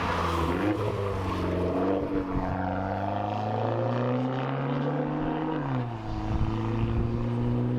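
Straight-piped Dodge Dart 1.4 turbo four-cylinder with the muffler and resonator removed, its exhaust droning under way. The engine note climbs slowly for about five seconds, then drops suddenly and holds steady.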